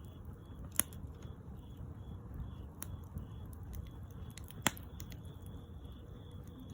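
Wood fire burning with a low steady rumble and scattered small crackles, broken by two sharp loud pops about a second in and near five seconds.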